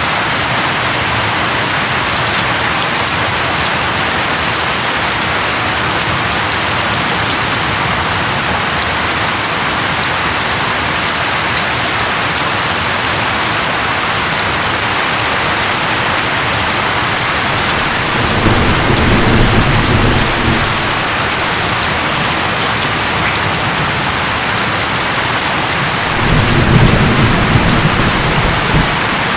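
Steady rain with two low rolls of thunder, the first about 18 seconds in and the second near the end.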